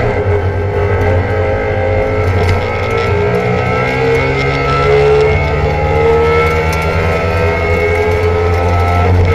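Trabant 601's air-cooled two-stroke twin engine running steadily, its pitch rising and falling a little.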